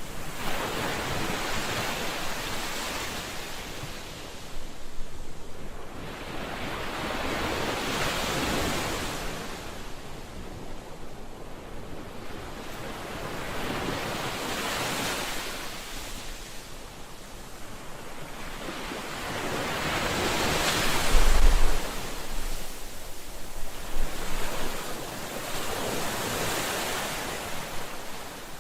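Ocean waves breaking and washing up on a shore, each surge swelling and falling away about every six seconds. The wave about twenty seconds in is the loudest, with a short low thud.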